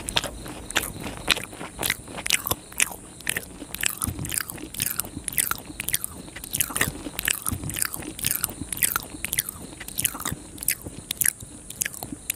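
Close-miked wet chewing and lip-smacking of a soft Indian sweet: a steady run of sticky mouth clicks and smacks, about two a second.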